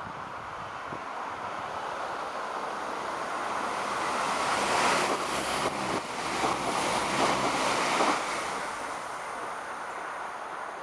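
Irish Rail 22000 class diesel multiple unit passing by: a rushing sound of engines and wheels that builds, peaks with uneven clatter about five to eight seconds in, then fades away.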